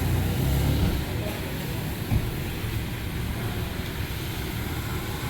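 A motor or engine running with a steady low hum, louder for the first second, with a single knock about two seconds in.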